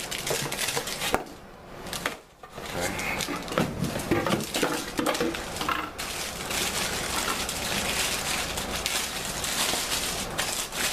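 A new faucet's box and packaging being ripped open and unpacked: crackling, tearing cardboard and plastic, settling into a steady dense rustle about six seconds in.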